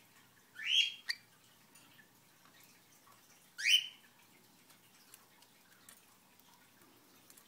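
Cockatiel whistling two short, sharply rising notes about three seconds apart, phrases of a learned whistled tune, with a small click just after the first note.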